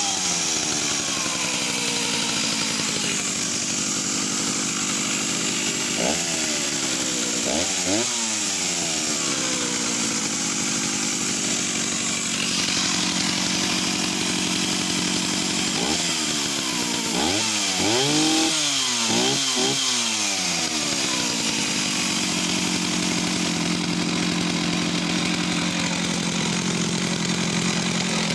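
Jonsereds 621 two-stroke chainsaw running after a cold start with the choke off: the throttle is blipped several times, the engine revving up and dropping back, with a cluster of quick revs past the middle. Near the end it settles to a steady idle.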